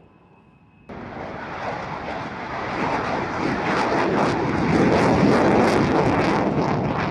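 Military jet aircraft engine noise, starting abruptly about a second in, swelling to its loudest about five seconds in, then easing slightly as the jet goes by.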